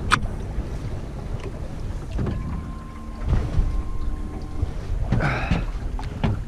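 Small fishing boat under way at low speed: its motor running with a steady low rumble and wind buffeting the microphone.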